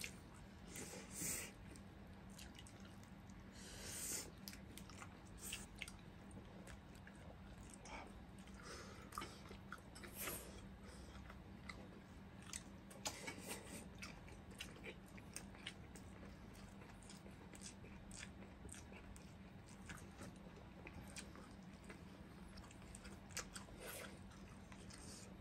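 Quiet close-miked chewing and biting of two people eating fried fish with their hands, with scattered soft clicks and small noises. A faint steady low hum runs underneath.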